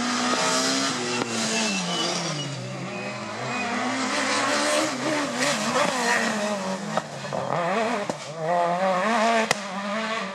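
Rally car engine at high revs on a special stage, the pitch dropping on a lift or downshift about two seconds in, then climbing and wavering through gear changes and throttle blips toward the end.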